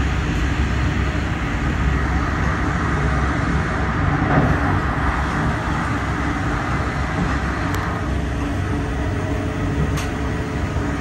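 Ride noise inside a moving Siemens passenger coach: the steady rumble of wheels running on rail, with two faint clicks about eight and ten seconds in.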